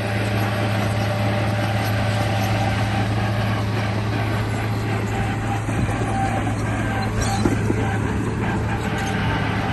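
Remote-control bulldozer running: a steady low mechanical hum under a rough, noisy layer, with a brief clatter about seven and a half seconds in.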